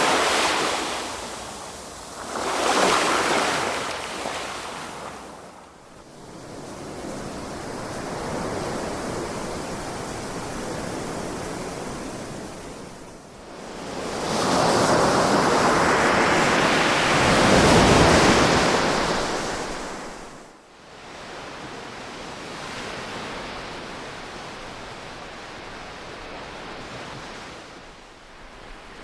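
Ocean waves breaking and washing up: two short surges in the first few seconds, then a long, louder one about halfway through, with softer wash between them.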